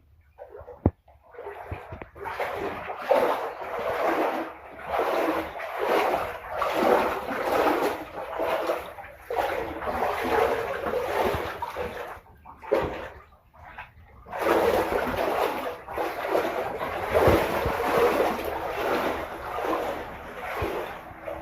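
A person wading through floodwater about a foot deep, each stride making a splashing slosh, with a short pause partway through.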